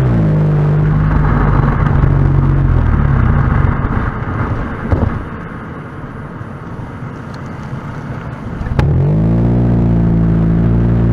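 Honda Vezel Hybrid's 1.5-litre four-cylinder running through a ROZA aftermarket muffler. Its note drops near the start, then fades away for a few seconds, leaving only road noise, and about nine seconds in the engine comes back in abruptly with a rising note that settles to a steady drone.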